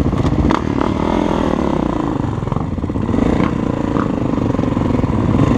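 Dirt bike engine running steadily, with a few light clicks and clatter over it.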